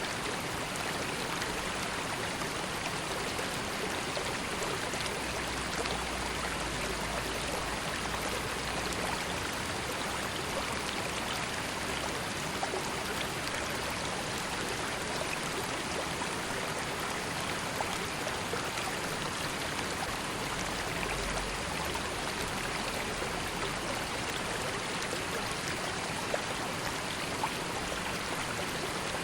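River water flowing and babbling steadily over stones, with small splashes and trickles through it.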